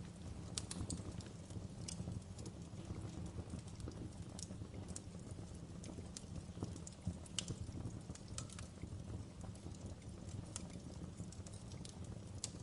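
Wood fire burning in a fireplace: a steady low rumble of flame with irregular sharp crackles and pops, a few each second.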